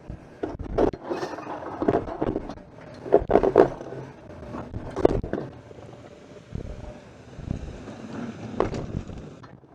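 A vehicle plowing heavy, wet snow: the engine rumbles under irregular clunks and scraping bursts, loudest about three and a half and five seconds in.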